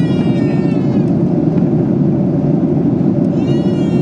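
Steady cabin roar of a Boeing 737-800 in flight, the CFM56-7B engines and airflow making a dense low rumble. A thin drawn-out high-pitched tone, falling slightly, sounds over it in the first second and again near the end.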